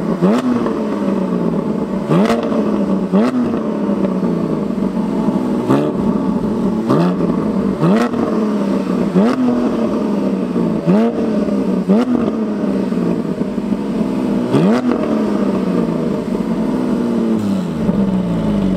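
Porsche 718 GT4 flat-six blipped over and over through an aftermarket Akrapovic exhaust, about once a second, its pitch leaping up and dropping back each time. The revving is for a decibel-meter test, which reads 103 and 109 dB for the two cars.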